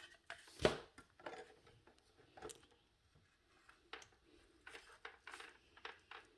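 Plastic vacuum cleaner parts being handled and fitted together: a series of light clicks and knocks, the loudest about half a second in.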